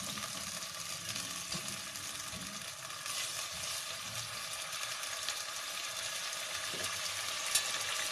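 Chicken pieces sizzling steadily as they fry in hot oil in a pan, with a light click near the end.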